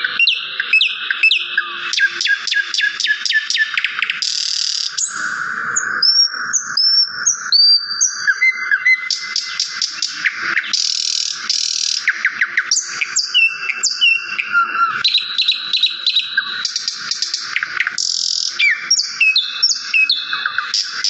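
Songbirds chirping and singing without pause: quick runs of chirps, rapid trills and short whistled slurs, overlapping throughout.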